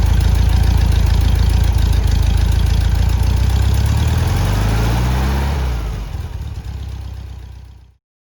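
Air-cooled Volkswagen Beetle flat-four engine running. About three seconds in its pitch falls away as the revs drop, then the sound dies down and cuts off near the end.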